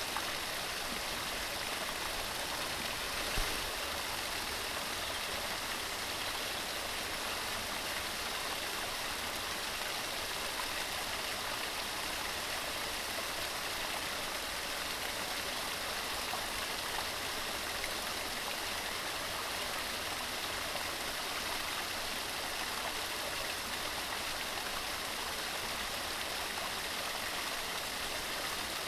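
Mountain stream running: a steady, even rush of water, with one brief low bump about three seconds in.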